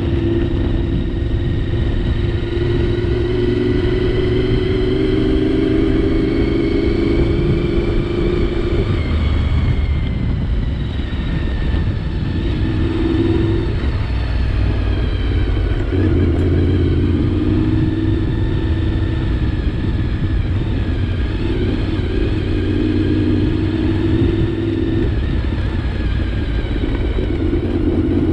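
Honda VFR 750 motorcycle's V4 engine running under way at cruising speed, its note rising and falling as the throttle opens and closes, with a couple of brief easings off partway through. Wind rushing past the helmet microphone runs underneath.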